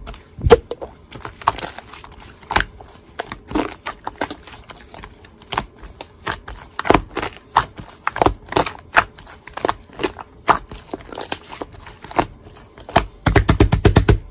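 Slime being squeezed and poked by hand, making irregular wet clicks and pops. Near the end comes a fast, even run of clicks.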